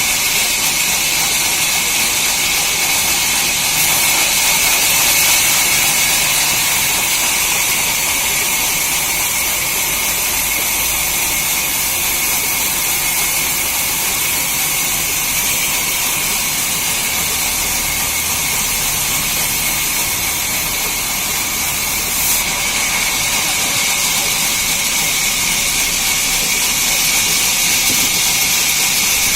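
Sawmill saw running through a log: a steady, loud hiss with no break.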